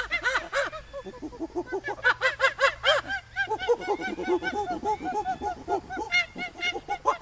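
Monkeys calling: rapid runs of short, arched, pitched calls from several animals overlapping, many calls a second.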